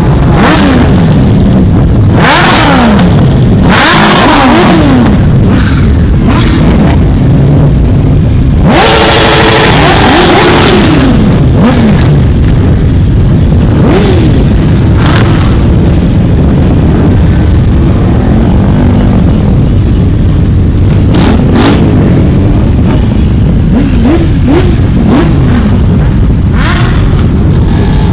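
A steady procession of motorcycles riding past, engines revving up and dropping back one after another. One much louder bike goes by about nine seconds in.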